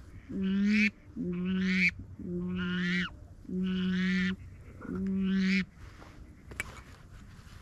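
Waterfowl call blown five times: long, evenly spaced honking notes about a second apart, each held at one steady low pitch.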